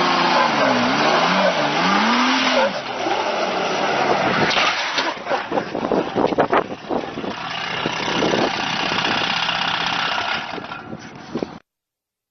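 A vehicle engine revving up and down several times, then rough noise with a cluster of sharp knocks and clatters a few seconds in, then steadier noise. The sound cuts off suddenly near the end.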